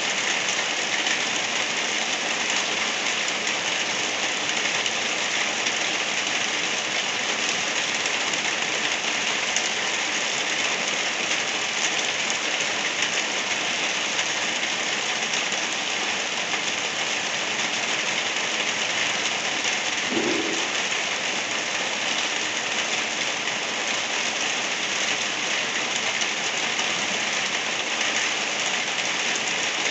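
Light rain falling steadily, an even hiss that does not let up. About two-thirds of the way through there is one brief, faint low tone.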